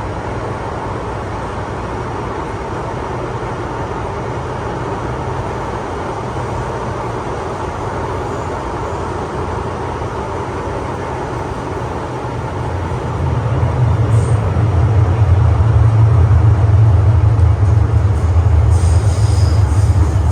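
MTR Island Line M-Train running, heard from inside the car: a steady rumble and hiss of wheels on rail. The low rumble grows markedly louder about 13 seconds in.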